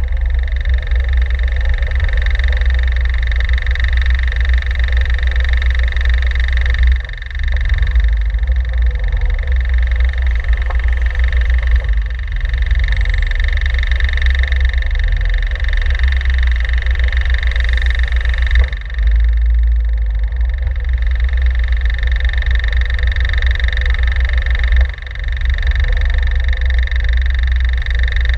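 Caterham 7 sports car's engine running at idle, a loud pulsing low rumble as the car creeps along, with a steady high-pitched whine over it. The rumble drops away briefly three times.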